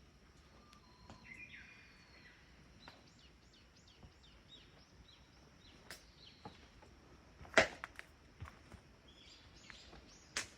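Wood fire crackling with a few sharp pops, the loudest about two-thirds of the way through, while small birds chirp faintly in a series of short high notes.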